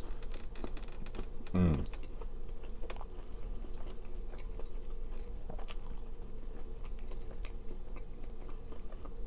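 Close-miked chewing and biting of a bacon and mac-and-cheese burger, with many small wet clicks throughout. A short low falling vocal hum comes just under two seconds in, over a steady low background hum.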